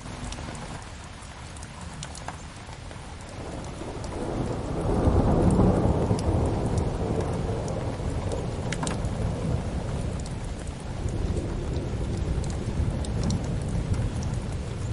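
Steady rain with a long roll of thunder that swells about four seconds in, peaks, and slowly fades. Sharp crackles of a wood fire are scattered throughout.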